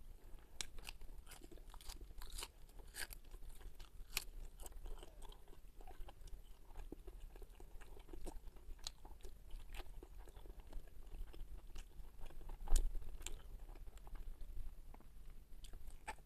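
Close-miked chewing and crunching of crisp fried carp, with many short sharp crackles and small mouth clicks. There is one louder thump about 13 seconds in.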